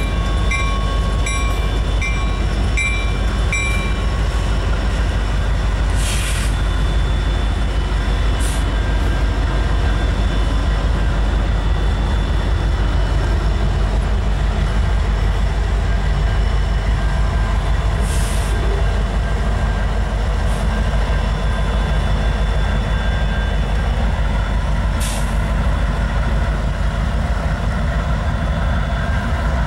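Diesel freight train rumbling past, with a railroad grade-crossing bell ringing about twice a second until it stops about four seconds in. A few short hisses sound later.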